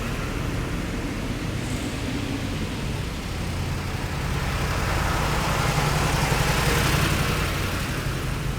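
A heavy military vehicle passing on a city street: a low engine note and road noise that grow louder from about halfway through, peak, then begin to fade near the end.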